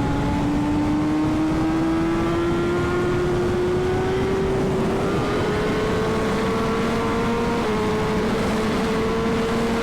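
Superbike engine pulling steadily up through the revs in one gear, the pitch rising slowly and evenly, then easing back slightly near the end, over a steady rush of wind noise.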